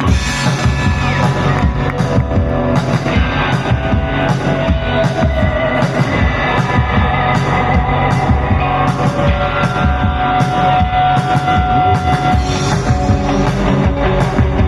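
Live rock band playing an instrumental section: drum kit with steady cymbal strokes about twice a second, bass, and electric guitars, with long held lead-guitar notes that bend slightly in pitch. The full band comes in at once at the start.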